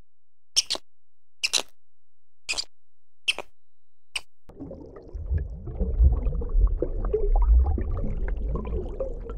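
Five sharp clicks, some doubled, about a second apart: a red squirrel biting and cracking food at a feeder. About four and a half seconds in they give way to a steady low underwater rumble with faint crackling.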